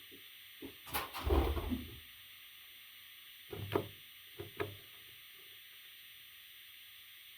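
A few knocks and thumps: a heavy cluster about a second in, then two shorter knocks near the middle.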